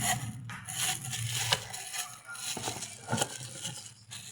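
Handling noises from unpacking a power drill kit: crinkling and scraping of packaging with small clicks and rattles of the plastic and metal parts, two sharper clicks about a second and a half and three seconds in.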